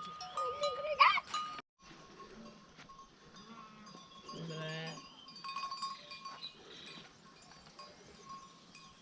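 Livestock bells ringing steadily, with occasional bleats from sheep or goats. The sound cuts out briefly about two seconds in.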